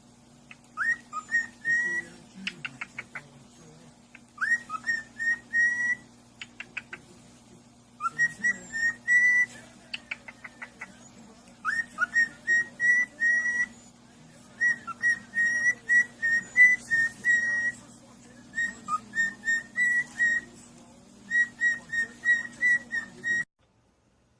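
A pet parrot whistling a short tune: a rising note, then a quick run of short, even notes. The phrase is repeated about seven times with brief pauses, over a faint steady hum, and cuts off suddenly near the end.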